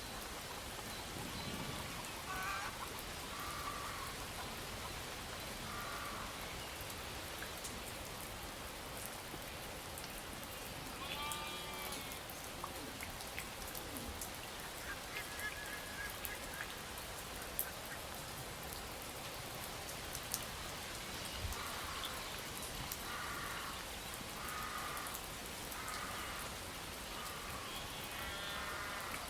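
Steady rain-like hiss with a bird calling now and then in short pitched calls, which come more often near the end.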